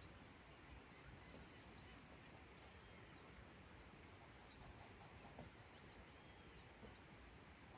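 Faint countryside dusk ambience: a steady high insect drone, with a few faint, brief bird chirps scattered through it.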